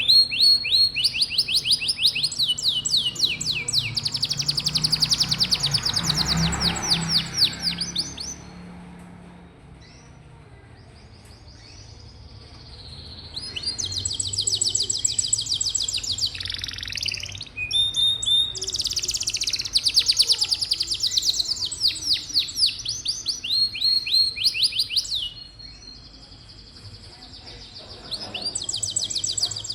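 Domestic canary singing long phrases of rapid, high trills, each run of quickly repeated notes switching to another, pausing twice for a few seconds between songs.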